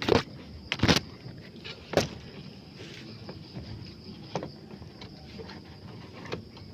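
A steady high-pitched insect drone, with three loud sharp cracks in the first two seconds and fainter ones later.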